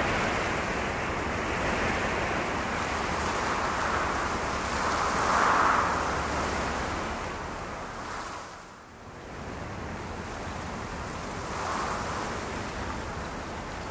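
A steady rushing noise, like surf or wind, that swells about five seconds in, drops away briefly near nine seconds, then comes back.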